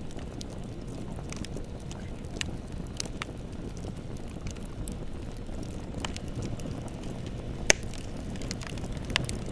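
Wood bonfire burning with a steady low rush of flames and scattered crackles and snaps, the loudest a sharp pop about three-quarters of the way through.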